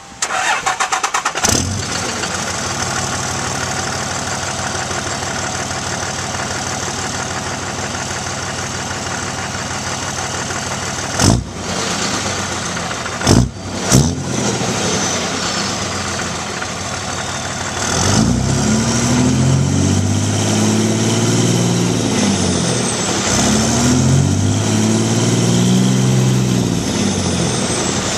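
2003 Dodge Ram 2500's 5.9-litre Cummins common-rail diesel cranking over and catching, then idling steadily through an AeroTurbine 5050XL stainless muffler. Three short sharp knocks come near the middle. Near the end it is revved up and let fall back twice.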